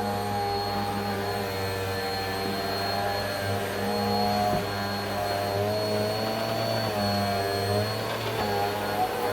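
Vacuum cleaner running steadily, its motor hum wavering slightly in pitch, with a thin high whine above it.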